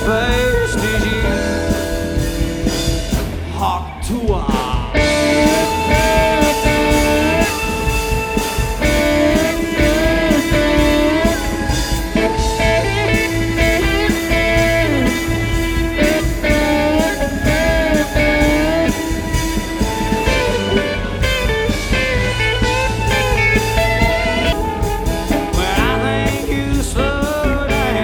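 Live blues-rock band playing: a singer's vocal over electric guitar, bass and drums, steady and loud throughout.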